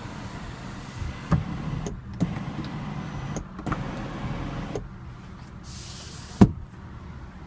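Electric moonroof of a Mercedes-Benz C350 being operated: its motor hums steadily with a few clicks and knocks, then stops just under five seconds in. A single sharp thump follows about a second and a half later.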